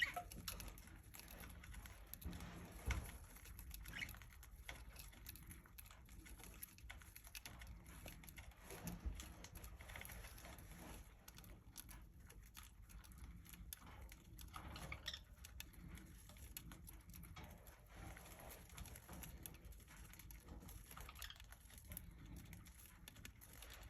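Faint, scattered light taps and scratches from a budgerigar moving about, over quiet room tone.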